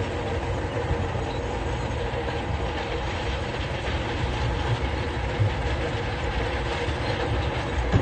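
Heavy construction machine's diesel engine running steadily under work, with a constant low rumble and a held whine, plus a few faint knocks.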